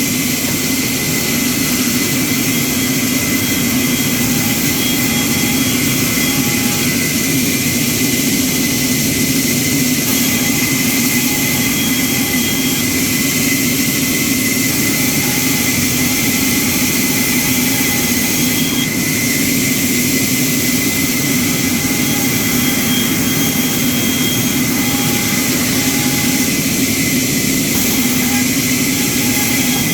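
Woodworking machine running steadily: a continuous whirring hiss over a low hum and a thin high whine.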